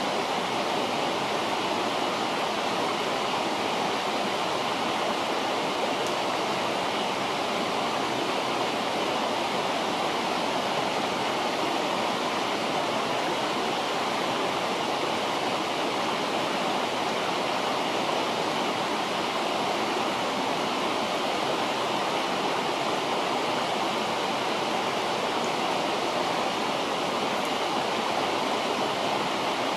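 A river flowing, a steady unbroken rush of water.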